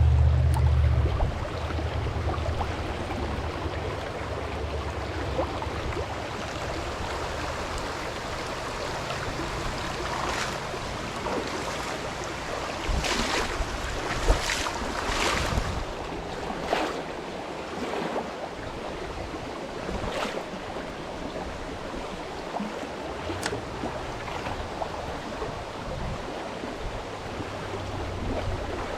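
Water lapping and splashing around a small boat, with a few sharper splashes near the middle. A low motor hum cuts off about a second in.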